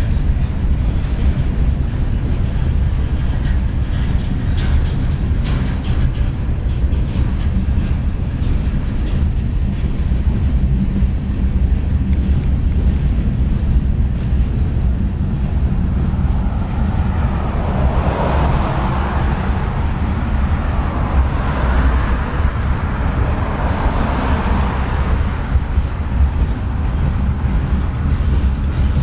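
Freight train rolling past, a steady low rumble, with a louder rush of wheel and rail noise swelling and fading about two-thirds of the way through.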